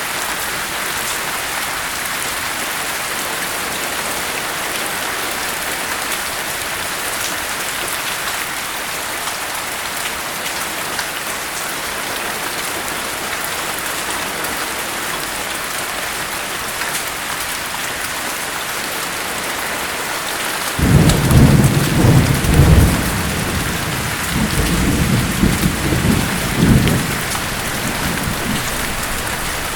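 Steady rain, joined about two-thirds of the way through by a rolling rumble of thunder that swells twice and dies away near the end.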